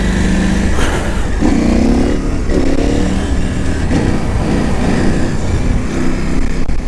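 Motorcycle engine, the parallel twin of a KTM 890 Adventure R, pulling under throttle while riding, its pitch rising and falling several times as the revs climb and drop, over a steady low rumble of wind.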